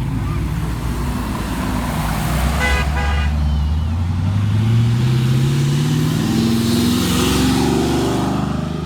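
Car engines running as vehicles pass, one engine note rising as it accelerates, with two short horn toots about three seconds in.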